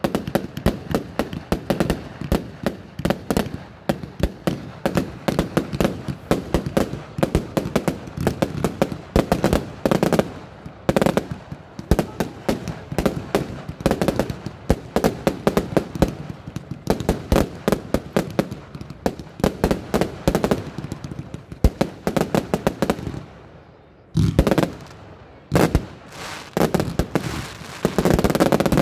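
A Broekhoff 'F.U.' 144-shot firework cake firing: a dense, rapid run of launches and aerial bursts, report after report. About 23 seconds in there is a brief lull before the volleys resume.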